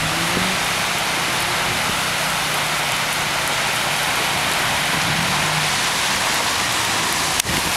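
Heavy rain falling, a loud steady hiss, with a faint low hum underneath for most of it and a single sharp click near the end.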